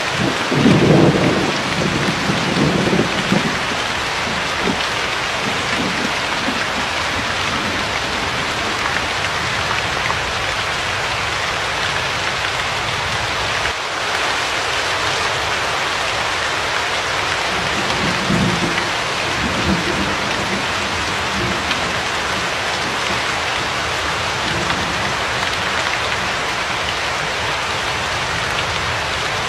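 Steady rain falling, with low rolls of thunder near the start and again about two-thirds of the way through.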